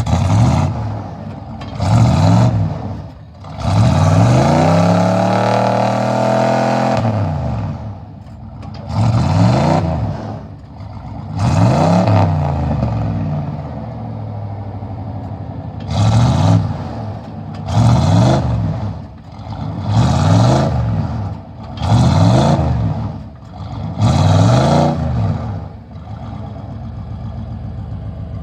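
Engine of an off-road truck or Jeep revved hard over and over, about ten times, roughly every two seconds, with one longer rev held a few seconds in: the driver is trying to power the vehicle through a mud obstacle it can't get past.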